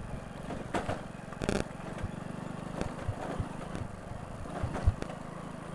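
Motorcycle engine running at low speed, a steady low hum of firing pulses, with scattered knocks and rattles as the bike jolts over a rough, broken track.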